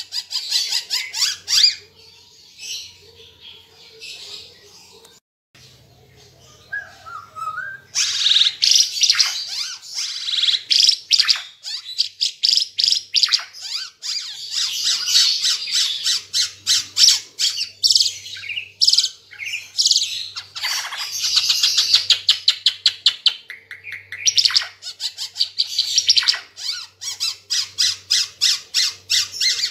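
Timor zebra finches (Burung Ara Timor) singing, with dense runs of rapid high chirps and trills. The song is sparser for a few seconds early on, then gets busier again after about eight seconds.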